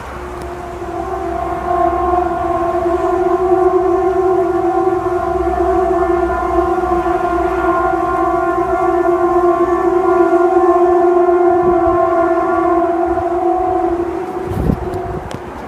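A loud, long, horn-like drone: one steady held pitch with several overtones, swelling in over the first couple of seconds, holding for about twelve seconds, then fading away near the end. It is one of the unexplained 'strange sounds' heard from the sky, siren-like in tone but without a siren's rise and fall. A short low thump comes just before it dies out.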